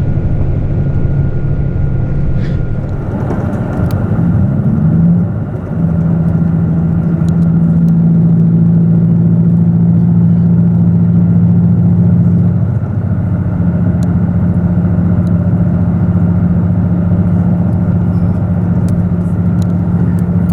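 Cummins diesel engines of a KiHa 85 series railcar running under power, heard on board over steady rail rumble. The engine note rises about four to five seconds in, dips briefly, then holds steady with a slight drop near the thirteen-second mark.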